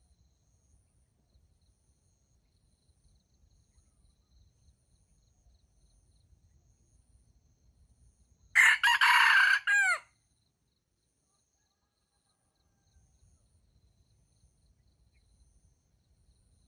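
A wild junglefowl rooster crows once: a loud, short crow of about a second and a half that drops in pitch at the end, over faint insect chirping.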